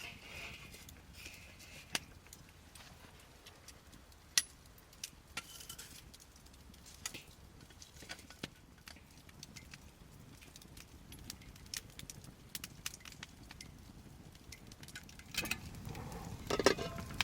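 Wood fire crackling, with sharp pops scattered at irregular intervals. Near the end, a short burst of clinking and knocking, like gear being handled.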